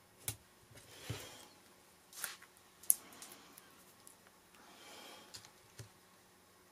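Paper and card pieces being handled on a craft table: a few soft rustling slides and several sharp clicks or taps, the sharpest about three seconds in.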